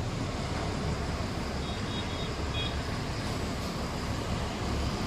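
Steady rumble of a moving truck, engine and road noise, with a few short faint high beeps about two seconds in.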